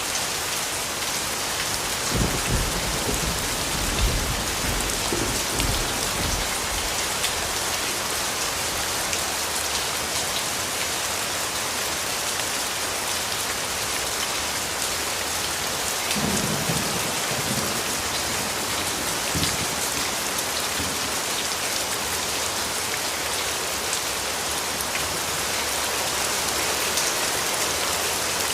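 Steady rain falling, with low rumbles of distant thunder about two seconds in and again a little past halfway.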